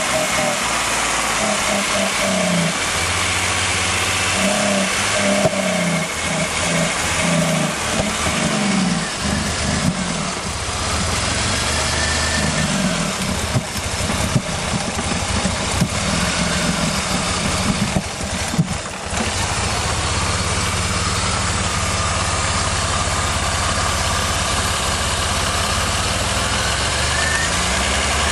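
Jeep CJ-7 engine running with the hood up, revved up and down in uneven blips for the first part, then settling into a steady idle.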